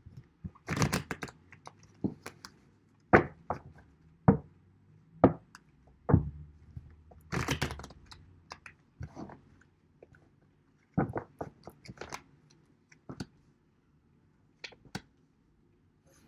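Irregular taps, clicks and rustles of a tarot deck being handled, shuffled and knocked against a table, with a denser burst of card noise about seven seconds in.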